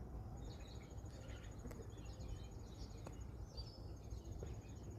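Faint outdoor background: scattered bird chirps over a low steady rumble, with a couple of faint distant knocks.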